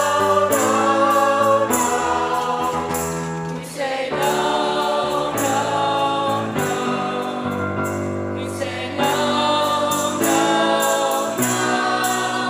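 A choir singing a song with instrumental accompaniment, holding long notes.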